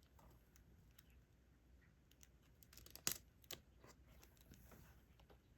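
Faint small clicks and taps of a diamond painting pen picking up resin drills and pressing them onto the sticky canvas, with two sharper clicks about three seconds in, half a second apart.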